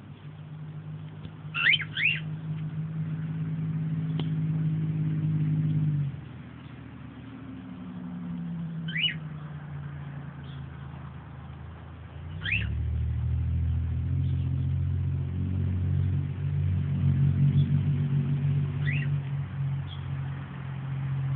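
A low engine drone, like a motor vehicle running, is the loudest sound. It stops abruptly about six seconds in, returns faintly, then comes back loud about halfway through. A few short, sharp chirps from a young bird sound over it, a quick pair near the start and single ones later.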